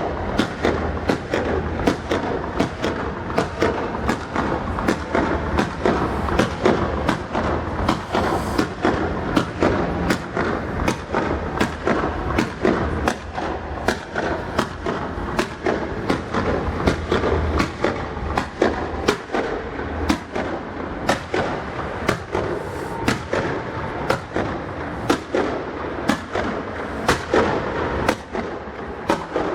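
Fireworks display going off: a dense, steady run of sharp bangs, about one to two a second, over a continuous low rumble.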